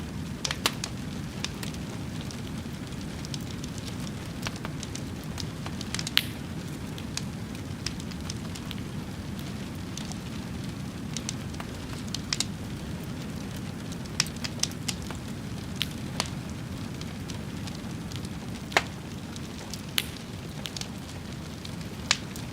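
A fire crackling, with sharp irregular pops over a steady low rush.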